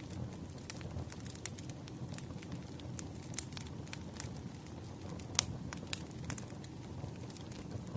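Wood fire crackling: irregular sharp pops and snaps over a steady low rumble, with one louder pop about five seconds in.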